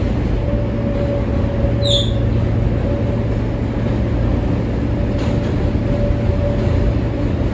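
R143 subway car running between stations: a steady, loud rumble of wheels on the rails with a faint steady whine, and a brief high squeal about two seconds in.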